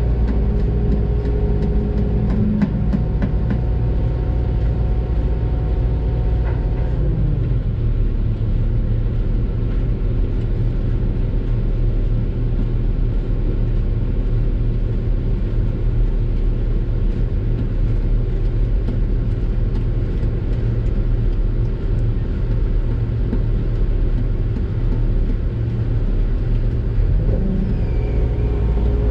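Doosan DX600 excavator's diesel engine running steadily, heard from inside the cab, with its pitch dropping about seven seconds in.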